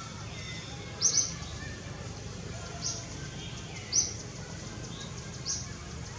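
Short, sharp, high-pitched bird chirps, one every second or so at uneven intervals, over a steady low hum.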